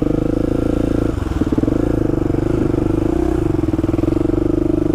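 Polaris Predator quad's carbureted engine running at a steady throttle, its note dipping briefly about a second in and then picking back up.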